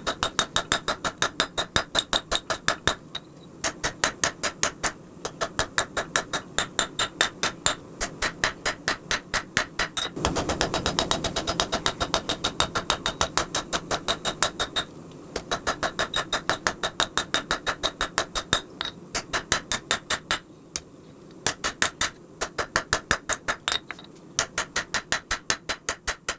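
Rapid, regular hammering of steel while forging a knife blade, about six ringing blows a second, broken by several short pauses. A steady rushing noise runs underneath.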